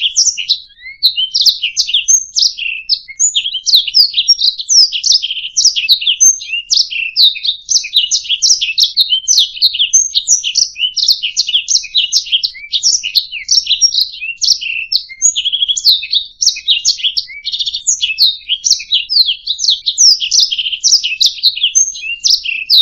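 Domestic canary singing a long, continuous, rapid song of chirps and trills without a break.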